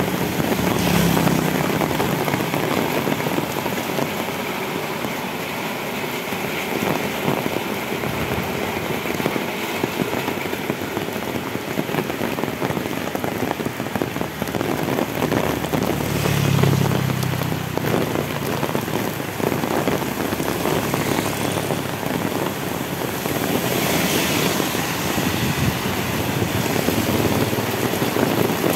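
Heavy rain pouring onto an asphalt road: a steady hiss. A vehicle engine swells past about a second in and again around seventeen seconds in.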